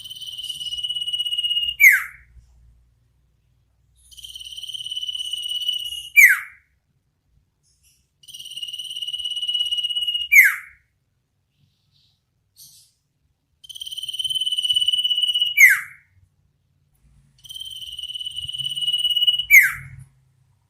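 Iora (sirtu/cipoh) giving its 'ngetir nyipow' call five times. Each call is a long high trill of about two seconds that grows louder, ending in a sharp downward-sweeping whistle. The calls repeat about every four seconds.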